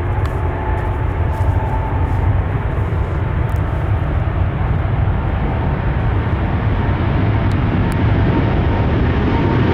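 KLM Boeing 777-200ER's jet engines at takeoff power, a steady deep rumble that slowly gets louder.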